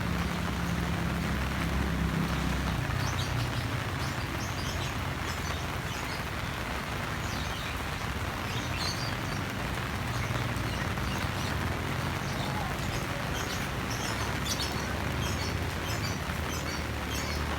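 Heavy rain falling steadily, with a low rumble in the first few seconds and scattered short, high chirps from about three seconds in.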